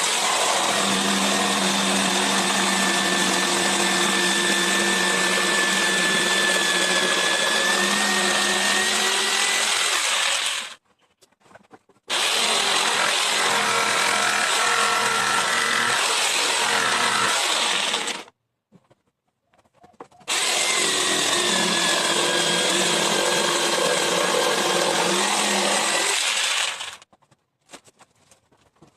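An electric power tool running and working wood in three long stretches, with a steady hum and a high whine that wavers a little under load. Each stretch starts and stops abruptly.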